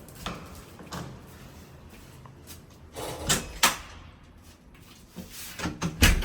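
A few sharp knocks and clatters with quieter handling noise between them. The loudest pair comes a little after three seconds, and the loudest single knock comes near the end.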